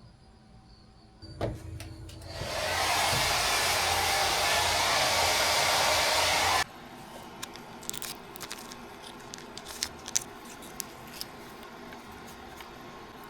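A click, then a loud, steady rushing hiss that lasts about four seconds and cuts off suddenly, followed by scattered faint crackles.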